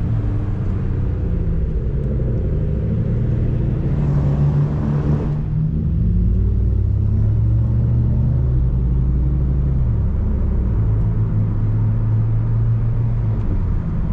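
Tuned Toyota Supra MK5's turbocharged B58 straight-six engine droning while driving, heard from inside the cabin. Its pitch rises about four seconds in and falls away about a second later, then holds steady with a couple of small drops.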